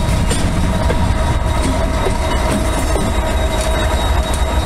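Freight train rolling past at close range: covered hopper and tank cars running by with a steady low rumble and wheel noise on the rails.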